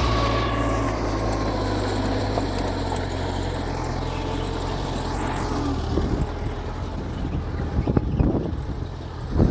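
Mitsubishi G2 bulldozer's diesel engine running steadily at a low pitch, with a few sharp knocks and clanks near the end.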